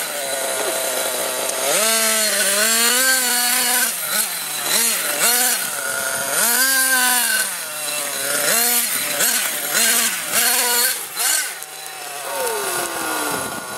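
Nitro RC monster truck engine revving hard and dropping back over and over under throttle, a buzzing whine that climbs and falls every second or so, with a long falling rev near the end.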